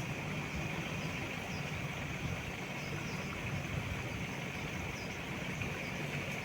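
A steady low motor hum under an even hiss, with a continuous high buzz and a few faint short chirps above it.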